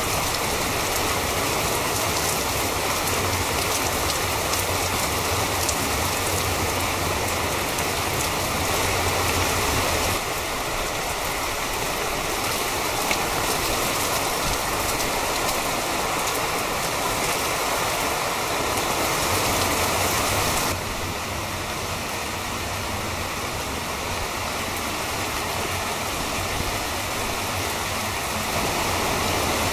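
Steady rain falling on garden leaves and paving stones, a continuous even hiss that shifts suddenly in level a few times.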